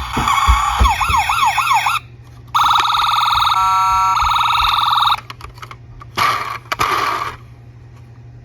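Electronic toy siren sounds: a fast warbling wail for the first two seconds with a few low thumps under it, then a steady electronic siren tone for about two and a half seconds, and a short burst around the seventh second before they stop.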